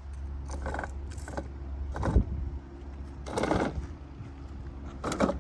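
Electric motors of a child's battery-powered ride-on John Deere tractor running with a steady low whir as it is driven and pulled free of where it was stuck. Five short scraping bursts break through over it, the loudest about two seconds in.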